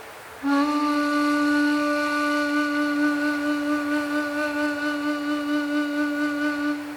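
Ambient music: a single long woodwind-like note, flute-like, with a slight vibrato, entering about half a second in and held until near the end, over a soft hiss.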